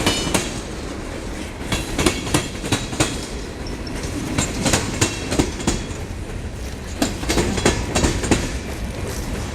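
Freight train cars rolling past with a steady low rumble, their wheels clicking sharply over the rail joints in uneven clusters.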